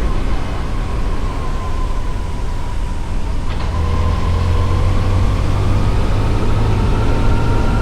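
Yamaha FJR1300's inline-four engine running under way, over a steady rush of wind and road noise, its pitch climbing gently from about halfway through as the bike speeds up.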